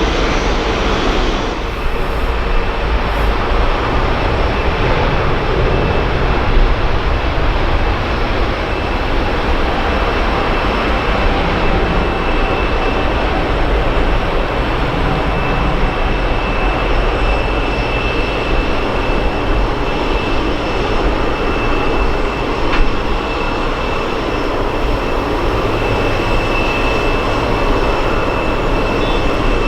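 Jet airliner engines running, a steady loud rumble with a thin high whine running through it.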